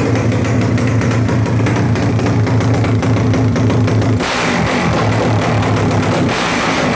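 Motorcycle engine, freshly finished in the shop, running at a steady idle; about four seconds in its note dips and then picks back up, with more hiss.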